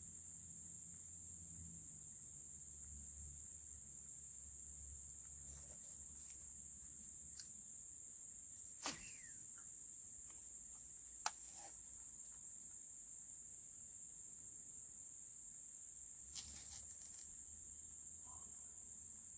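Steady high-pitched chorus of insects, with two short sharp clicks, about 9 and 11 seconds in.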